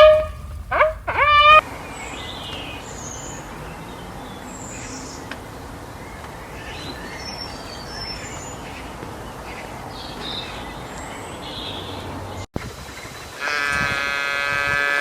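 Animal calls. A pitched call with rising sweeps ends about a second and a half in. Then comes a long stretch of outdoor background with faint high chirps. After a sudden cut, a long, steady pitched call starts near the end.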